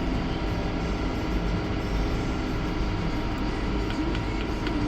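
John Deere 6R155 tractor's engine running steadily, heard from inside the cab.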